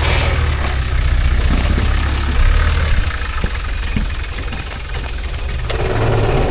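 Off-road rock-crawling truck's engine running at low revs as it crawls over rocks, a steady deep rumble with a few short knocks scattered through it.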